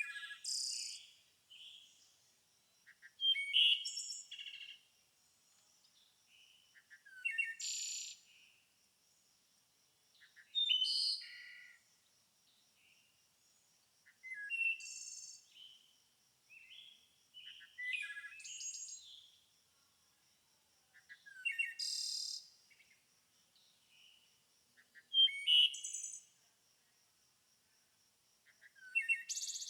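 A songbird singing short, twittering phrases about a second long, repeated about every three to four seconds, with a faint steady high-pitched tone running underneath.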